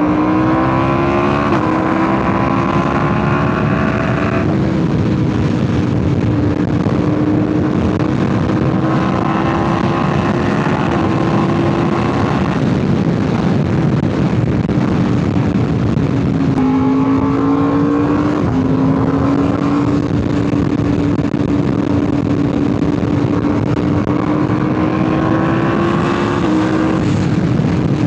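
2025 Yamaha R1's crossplane inline-four running through an SC Project CRT titanium exhaust under way at moderate revs. The engine note climbs slowly and then drops at several gear changes.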